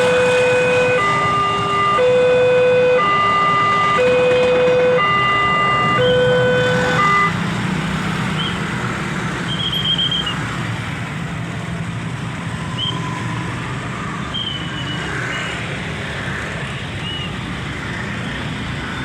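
Railway level crossing warning alarm sounding a two-tone signal that alternates about once a second, then cutting off about seven seconds in. Road traffic noise of waiting vehicles carries on underneath and after it.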